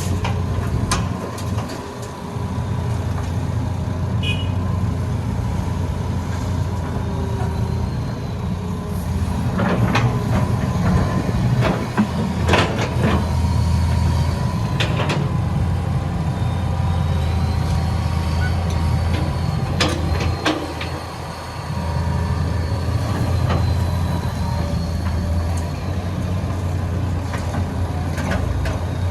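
Hitachi EX200 excavator working: its diesel engine runs steadily under load with a thin whine that rises and falls, and several sharp clanks and knocks come in the middle stretch.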